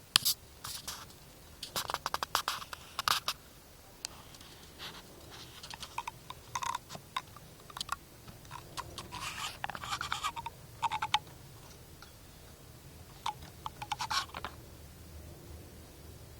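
A canary pecking and scratching, making irregular clusters of quick clicks, scrapes and crunches with quiet gaps between them.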